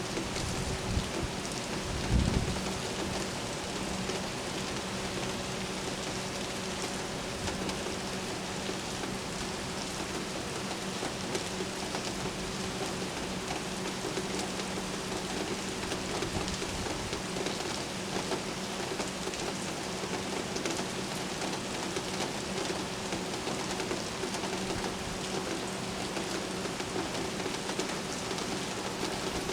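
Steady rain falling during a thunderstorm, an even hiss throughout. A brief low thump comes about two seconds in, with a faint steady hum underneath that fades near the end.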